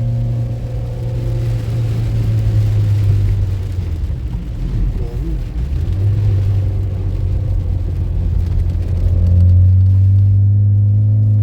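Car engine running as the vehicle drives, a steady low hum whose note wavers midway, then settles and grows louder near the end.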